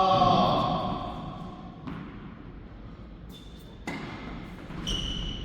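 Tennis play on an indoor hard court: a ball struck with a racket a little under four seconds in, and short high squeaks of sneakers on the court.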